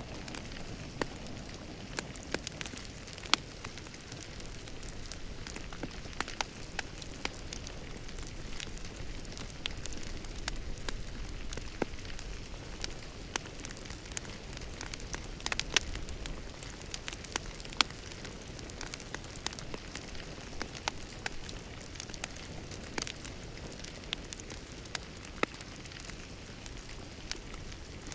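Wood fire in a fireplace crackling, with irregular sharp pops and snaps over a steady low hiss of burning.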